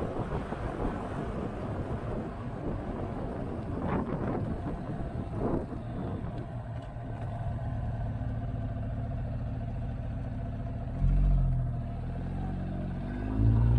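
Motorcycle engine running on the move, with wind buffeting the microphone in the first half. The engine note steadies, then swells louder twice near the end, rising in pitch the second time as the throttle opens.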